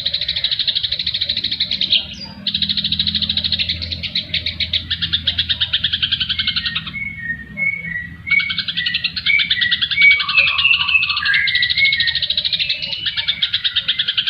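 Recorded songbird calls mixed for bird-song training: a fast, continuous buzzy chattering trill that breaks off briefly twice, with a run of short clear whistled notes slipping in and out through the middle, from a combination of cucak jenggot, sparrow and siri-siri songs.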